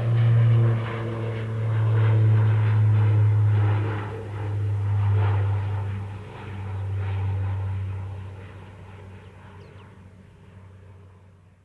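Jet engines of a Boeing 747-412F, Pratt & Whitney PW4056 turbofans, running with a steady low rumble as the freighter moves along the ground after landing. The sound swells and dips, then fades away over the last few seconds.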